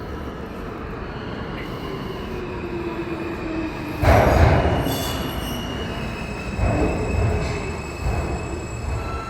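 R160 subway train moving through the station, its wheels squealing on the rails in steady high whines while a lower whine slides down in pitch. About four seconds in a sudden loud rush of rail noise begins, with further loud surges near seven and eight seconds.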